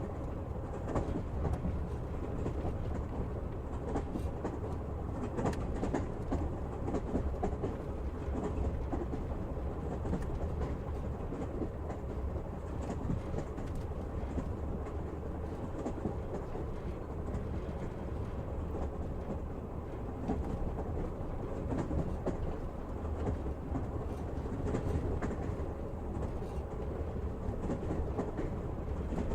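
Passenger train running at speed, heard from inside the carriage: a steady rumble with the clack of the wheels over the rail joints.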